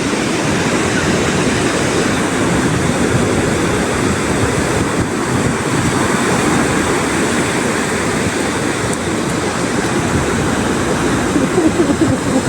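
Steady roar of strong Pacific surf breaking on the beach, with wind buffeting the microphone.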